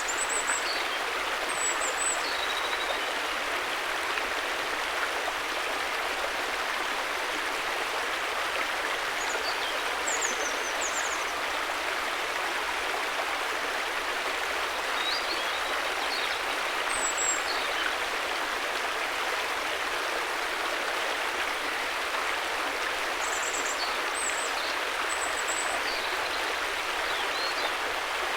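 A river flowing with a steady, even rushing of water. A few brief high chirps come and go over it.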